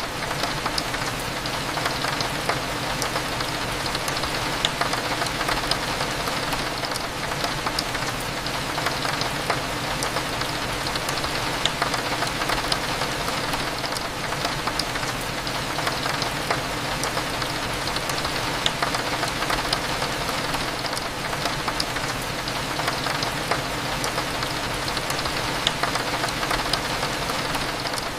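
Steady rain against a window, with scattered sharp drop ticks, over a low steady hum.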